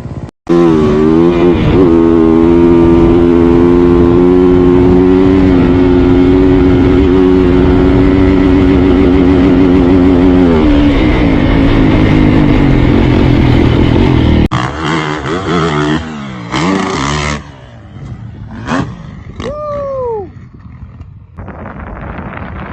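Dirt bike engine running hard at high revs, held fairly steady for about ten seconds before it drops off. After a cut come shorter bursts of revving that rise and fall, then a quieter stretch near the end.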